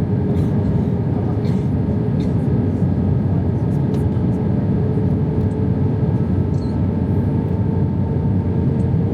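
Steady cabin noise of a British Airways Airbus A320 on approach to land, heard from inside the cabin: a constant rush of airflow and engine noise with a faint steady hum.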